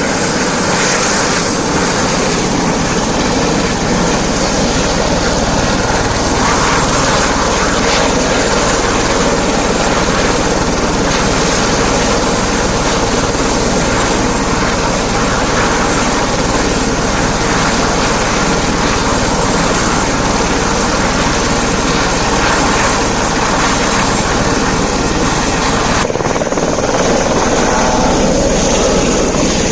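Helicopter turbine engine and rotor running loud and steady, the continuous noise of a helicopter at takeoff power.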